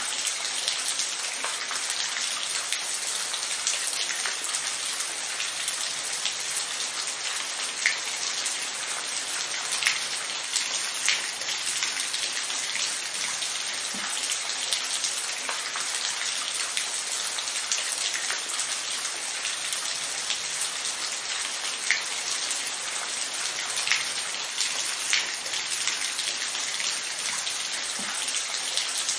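Steady rain falling, an even hiss with scattered louder individual drops striking a surface.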